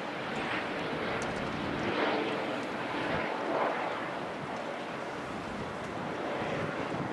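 Metronom double-deck regional train rolling slowly in on the rails, a steady rushing rumble.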